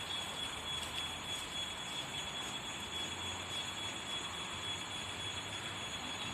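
ED9E electric train running: a steady, even rail noise with a thin, steady high tone over it.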